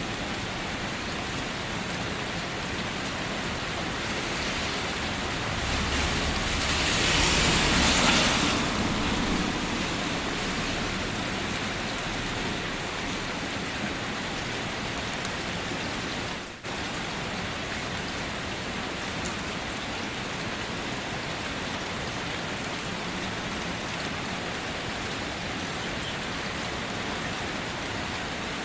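Steady rain. Around six to nine seconds in, the rain swells into a louder rush that peaks about eight seconds in and then eases back. About halfway through, the sound briefly drops out for a moment.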